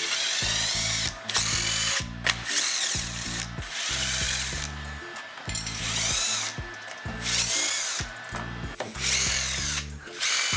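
A power tool, such as a cordless drill or electric ratchet, whirring in repeated short runs. Each run rises and falls in pitch as the motor spins up and down while fasteners are removed during engine disassembly. Background music with a stepping bass line plays underneath.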